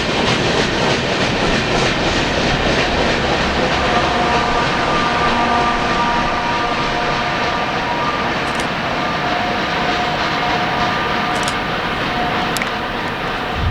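Coal train rolling past at trackside, its rear distributed-power locomotive (NS 4461) going by with the coal cars: a steady loud rush of wheels on rail. Faint ringing tones of squeal run through the middle of it.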